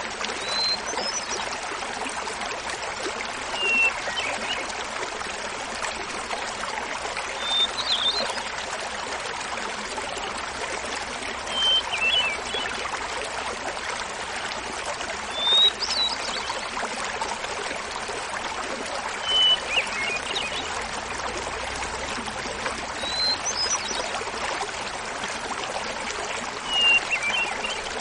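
Hermit thrush singing over the steady rush of a small waterfall. There are eight song phrases about four seconds apart, each a clear held note followed by a quick run of higher notes. The phrases alternate between a higher and a lower pitch.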